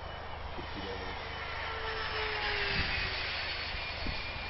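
Electric radio-controlled CZ Scimitar model aircraft flying past. Its rushing sound swells to its loudest about two to three seconds in, with a faint tone sliding slowly downward as it goes by.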